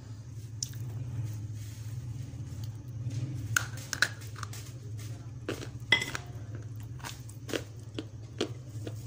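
Scattered sharp crunches and cracks, about seven over several seconds, from dry grey clay being bitten, over a steady low hum.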